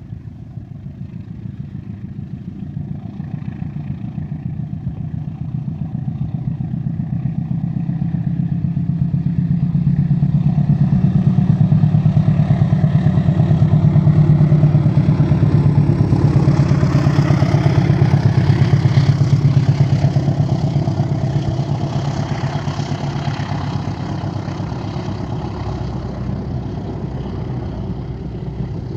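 Diesel locomotive and its passenger train passing: the engine's low drone grows steadily louder, peaks about halfway with rattle and hiss from the wheels, then fades as the train moves away.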